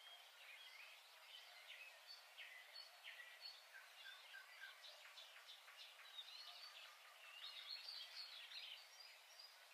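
Faint chirping and twittering of small birds, many short calls overlapping, busier in the second half.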